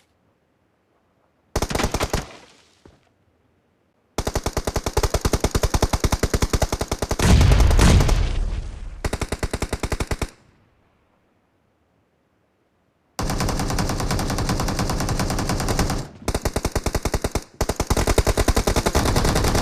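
Video game automatic gunfire in rapid bursts: a short burst, a long stretch of firing with a deep boom in the middle, a silent pause of about three seconds, then long runs of fire broken by two brief stops.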